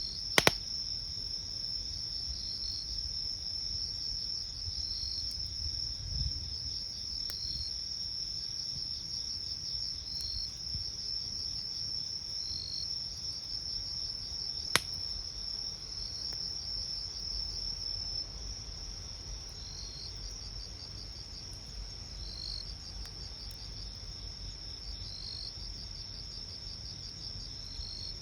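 Crickets trilling at night in a continuous high-pitched trill, with a second insect giving a short chirp about every two and a half seconds. A campfire pops sharply twice, once near the start and once about halfway through.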